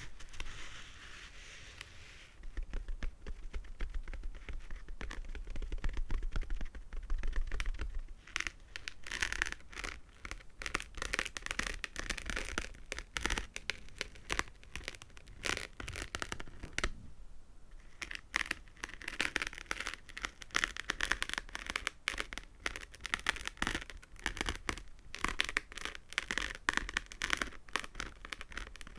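Fingernails tapping and scratching rapidly close to the microphone: a dense stream of fine clicks, pausing briefly about 17 seconds in, with a low rumble in the first several seconds.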